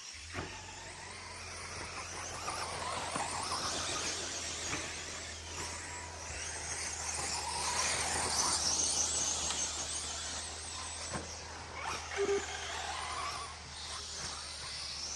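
Radio-controlled short course trucks racing on a dirt track, their motors and tyres making a high-pitched whine that swells and fades as they pass, with a few sharp clicks and knocks.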